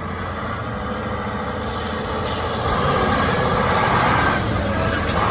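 Heavy off-road truck's diesel engine running with a steady low rumble, growing louder from about two seconds in and easing off slightly near the end.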